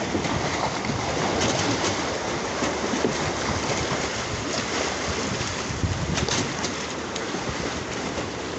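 Strong wind rushing over the microphone and choppy waves splashing, with a few sharper slaps of water.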